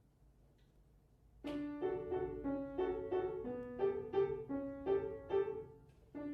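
Piano playing a waltz introduction, a low bass note followed by chords in a repeating oom-pah-pah pattern, starting about a second and a half in after near silence.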